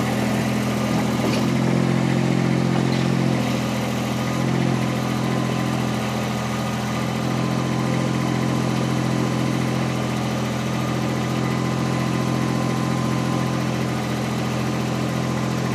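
Mini skid steer's engine running steadily while carrying a heavy pallet load of concrete blocks on its forks, with a slight change in tone in the first few seconds.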